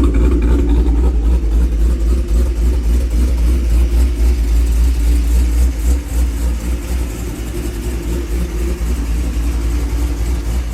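Cammed 5.3-litre V8 of a GMC Sierra (BTR stage 4 cam, long-tube headers) running with a deep, loping low rumble. It eases off slightly about six seconds in.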